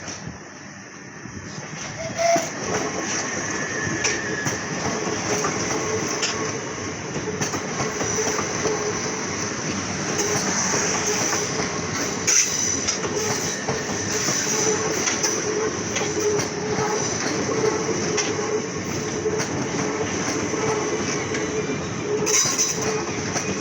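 Southeastern Class 375 Electrostar electric multiple unit rolling in along the platform. It grows louder about two seconds in, then holds a steady rumble of wheels on rail with a high, steady squeal over it.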